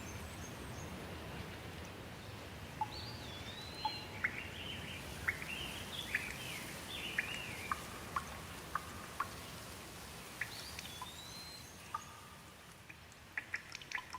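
Steady rain falling, with a bird calling over it for several seconds mid-way in a run of short chirps and whistled rising and falling notes. Near the end the rain's hiss drops away and scattered drips tick.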